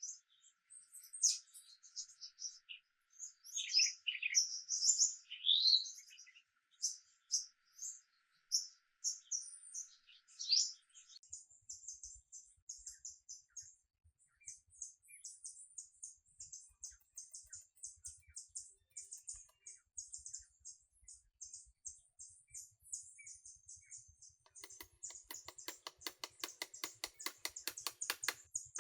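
Songbirds chirping and calling with quick sweeping notes. About ten seconds in they give way to fast, fine high ticking, and near the end a rapid, regular clicking of several strokes a second grows louder.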